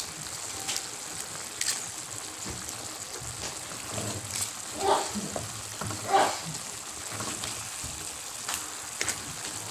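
Chicken pieces sizzling gently in their juices in a pan, with a wooden spatula clicking and scraping against the pan as a chicken bouillon cube is mashed in.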